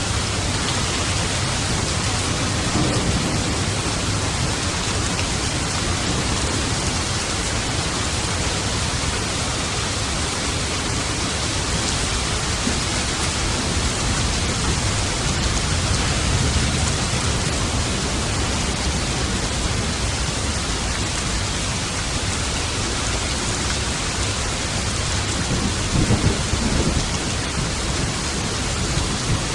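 Steady heavy rain hissing, with low rolling thunder rumbling underneath; a louder thunder rumble swells up near the end.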